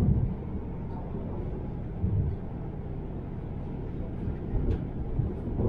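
Electric intercity train running on the line, heard from inside: a steady low rumble of wheels on rail, with a few low thumps at the start, about two seconds in and near the end.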